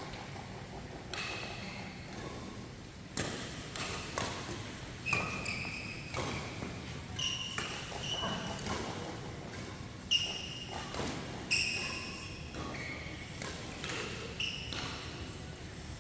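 Badminton doubles rally: rackets strike the shuttlecock in sharp cracks about once a second, while players' court shoes give short high squeaks on the floor between the shots.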